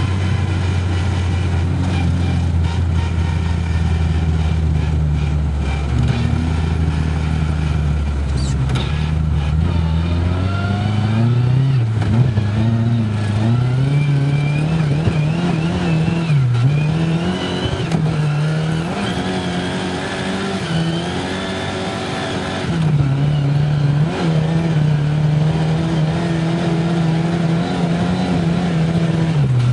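Lada car engine heard from inside the cabin while driving, running steadily and then rising and falling in pitch several times as the throttle opens and the gears change.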